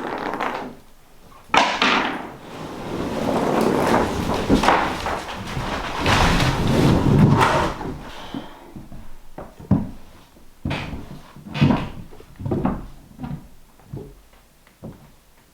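Plywood being handled: long scraping and sliding sounds, then a run of irregular wooden knocks and thumps.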